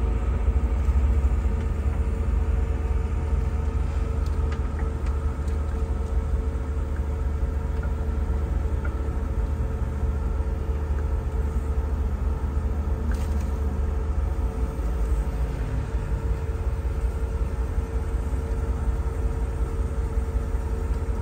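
1986 Range Rover Classic with a swapped-in LS3 6.2-litre V8 and 6L80 six-speed automatic, driving on a test drive: a steady low rumble of engine and road.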